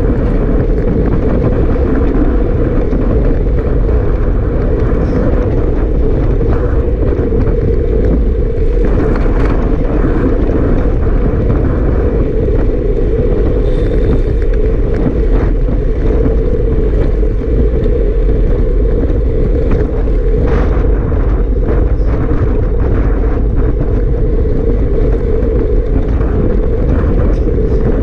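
Strong wind buffeting the microphone: a loud, steady rumbling rush with irregular crackles from gusts.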